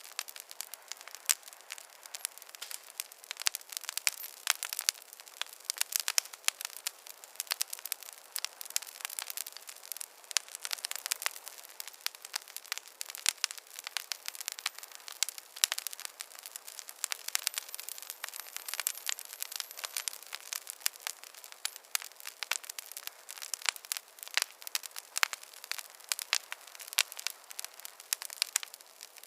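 Fireplace fire crackling: a dense, irregular stream of sharp pops and snaps, with no low roar beneath them.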